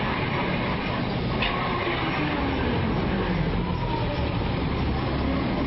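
Electric drive motors and gearing of a radio-controlled EKG-5 model excavator running, a steady mechanical rattle with whines that rise and fall in pitch as the motors change speed.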